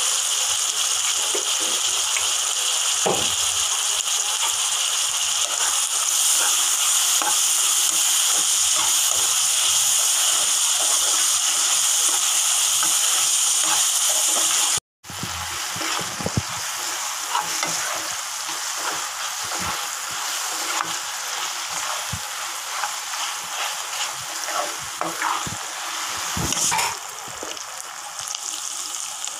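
Onions, tomato and spices sizzling in hot oil in a kadai while being stirred. The sizzle is loud and steady, cuts out for a moment about halfway, then goes on quieter with frequent scrapes and clicks of the stirring.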